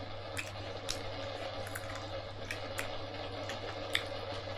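Light eating noises: scattered small clicks and smacks, a few each second, over a steady low hum.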